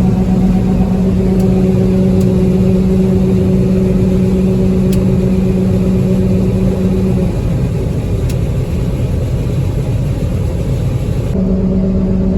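Combine harvester running steadily while harvesting soybeans, a loud rumble with a steady hum that drops out about seven seconds in and comes back near the end. A few faint ticks sound over it.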